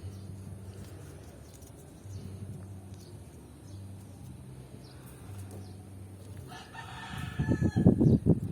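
A rooster crows near the end over a faint steady low hum. Loud, rough, low rumbling comes in at the close.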